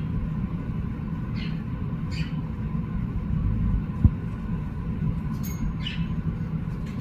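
A steady low rumble with a few faint, short high chirps from pet parrots, and one sharp thump about four seconds in.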